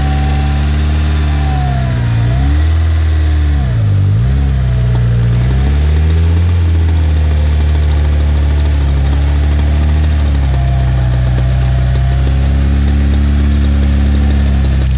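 Off-road 4x4 engine running under load, its revs dropping sharply twice, about two and a half and four seconds in, then rising again and holding steady.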